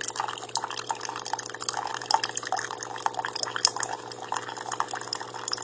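Litchi single-serve K-Cup pod coffee maker dispensing, with hot liquid trickling and spattering into a cup over a steady hum from the machine.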